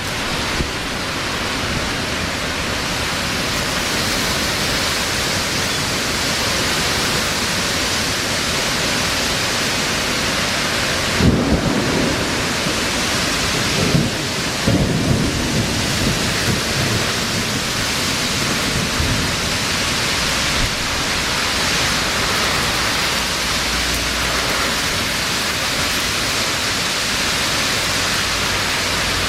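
Heavy rain pouring down in a thunderstorm, a steady loud hiss. About eleven seconds in, thunder cracks and rolls in several rumbles lasting some five seconds.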